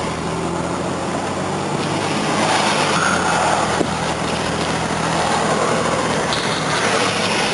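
Car engine running, with a steady hum and road noise. The hum drops away about six seconds in.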